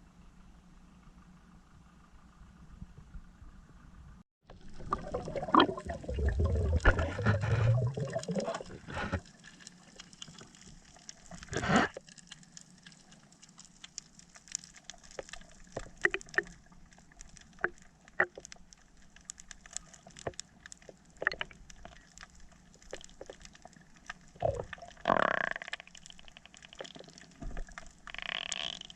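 Water gurgling and sloshing in a few loud spells, with scattered short sharp clicks in between.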